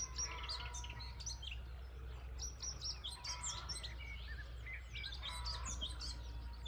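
Several songbirds chirping and singing over one another in quick, overlapping short calls, with a steady low rumble underneath.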